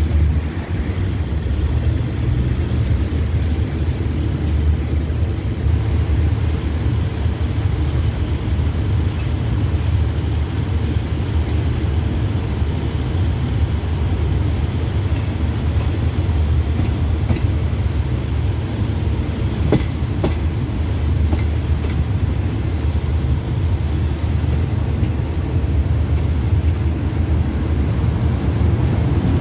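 Express passenger train running along the track, heard from a coach window: a steady low rumble of wheels on the rails, with a couple of faint clicks about two-thirds of the way through.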